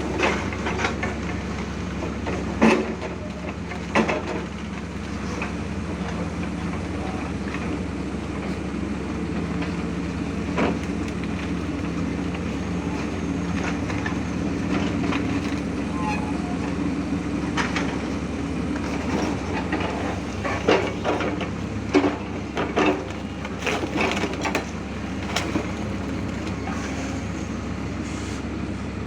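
Doosan DX200A excavator's diesel engine running steadily under load while the machine is tested after repair, with irregular sharp metallic clanks and knocks from the working machine.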